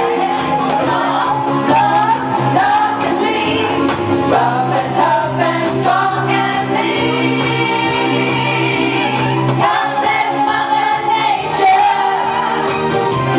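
A singer performing a song over a karaoke backing track, holding one long note in the middle.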